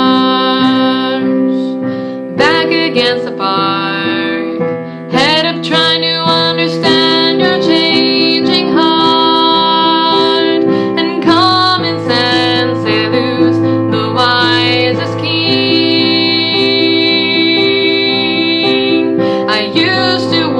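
Live acoustic song: a piano plays sustained chords and a woman sings long held notes over it.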